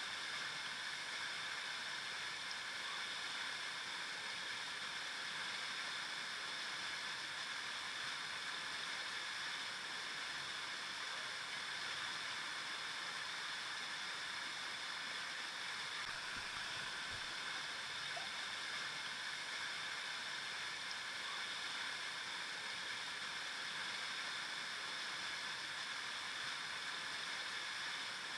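A river flowing over rocks: a steady rushing and babbling of water, even throughout.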